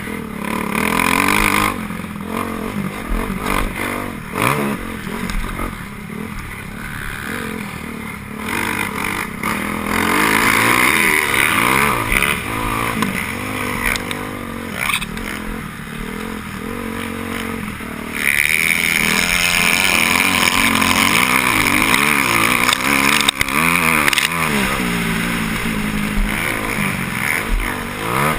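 Motocross bikes racing, their engines revving up and down as the riders work the throttle and shift. A louder, steadier stretch of high revs comes about two-thirds of the way through.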